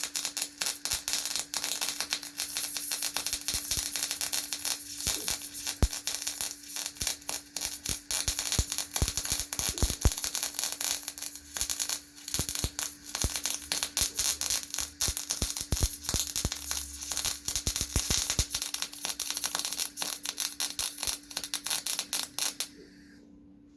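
Electric arc welder running a long continuous weld on steel, a dense irregular crackle and sizzle that cuts off abruptly about a second before the end.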